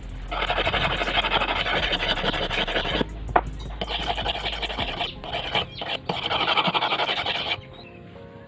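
Rust being scraped off a pair of steel scissors: three long scraping passes with short breaks between them, stopping shortly before the end.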